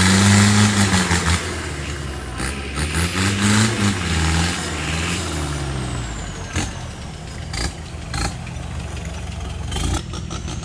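Off-road Mitsubishi Strada pickup's engine revving up and falling back twice, then running lower, with a few sharp knocks in the second half.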